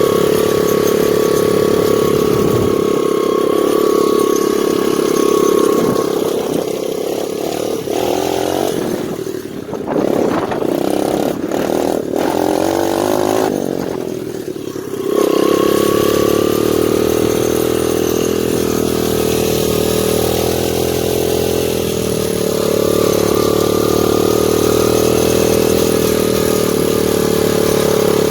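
2001 Honda XR100R's single-cylinder four-stroke engine running steadily as the dirt bike is ridden. For several seconds around the middle its note drops lower and quieter, then it comes back up strongly about halfway through.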